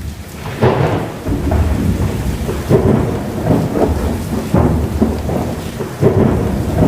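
Storm sound effects: steady rain with low rumbles of thunder swelling up every second or two.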